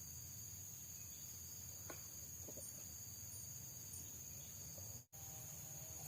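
Faint, steady high-pitched drone of insects over a low background rumble, with a few faint ticks. The sound drops out for an instant about five seconds in.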